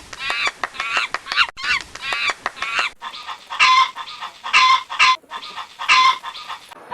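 Farm birds calling: first a flock's rapid, overlapping honking calls for a few seconds, then a few louder single calls spaced about a second apart.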